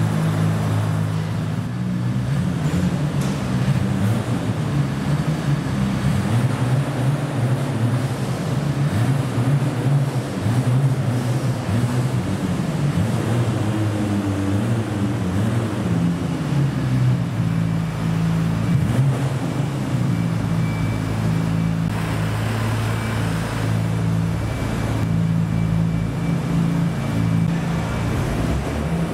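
Classic car engines running at low revs as the cars are driven out at walking pace, a steady low engine drone that rises and falls slightly in pitch.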